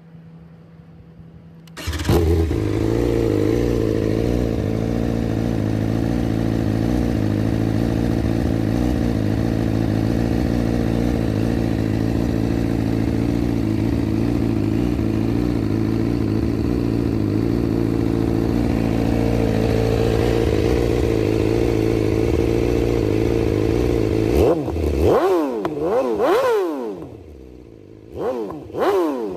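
BMW S1000RR's inline-four engine starts up about two seconds in and idles steadily. Near the end the rider revs it in quick throttle blips, the pitch rising and falling several times.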